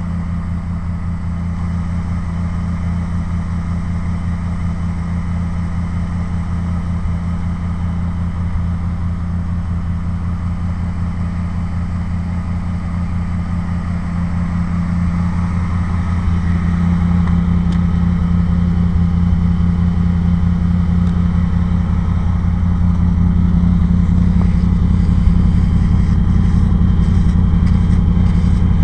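A 350 small-block Chevrolet V8 with throttle-body injection idling steadily through a MagnaFlow muffler with no catalytic converter, warming up after a cold start. The idle grows somewhat louder about halfway through, with no revving.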